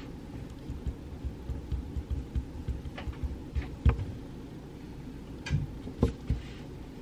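Pencil writing on paper at a desk: a run of soft, irregular taps and knocks carried through the desktop, with a few sharper clicks, the loudest about four seconds in and two more near six seconds, over a steady low room hum.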